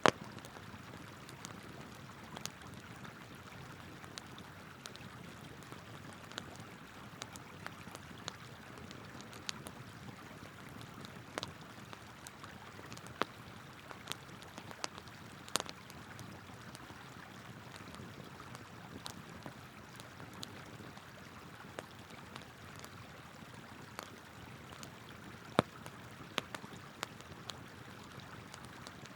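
Wood campfire crackling with irregular sharp pops, a few louder than the rest, over the steady rush of a flowing river.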